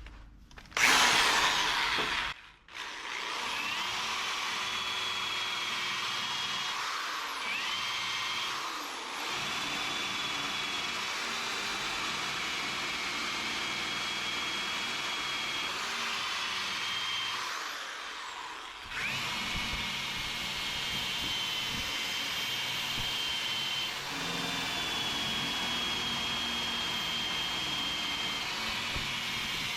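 Power tool spinning a wire wheel against the car's sheet metal to clean it up. After a loud burst about a second in, it runs steadily with a high whine that shifts a little in pitch, stopping briefly twice and starting again.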